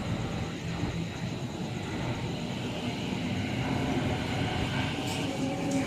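Electric suburban train approaching through the station: a steady rumble with a faint hum, growing slightly louder, with a few faint clicks near the end.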